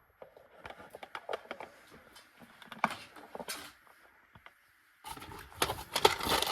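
Light clicks, taps and scraping of hands handling and working on an object, scattered at first and turning into a dense run of clicks and rubbing near the end.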